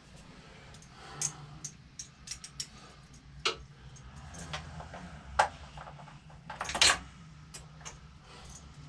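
Metal hand tools clinking and clicking as sockets and wrenches are handled, in scattered sharp clicks with a louder clatter about two-thirds of the way through.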